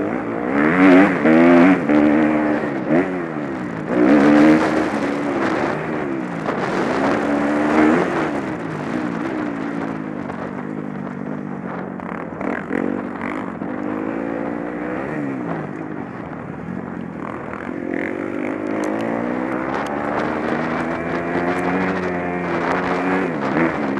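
Motocross bike engines revving, their pitch rising and falling over and over as the bikes accelerate and shift, loudest in the first eight seconds.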